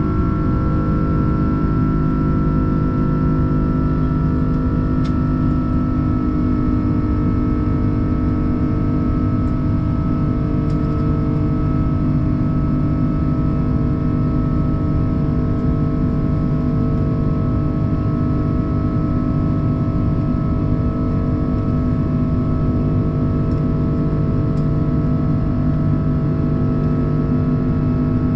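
Steady cabin noise inside an Airbus A330-343 with Rolls-Royce Trent 700 engines: a constant hum with several steady tones that hold the same pitch throughout, the engines at unchanging power.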